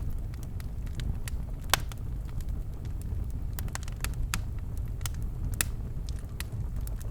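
Birchwood fire burning in a fireplace: a steady low rumble of flames with irregular sharp crackles and pops, several a second, one louder pop just before two seconds in.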